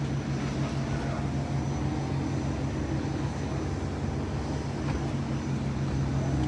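Steady low machinery hum of a ship's running plant, with a faint high whine above it.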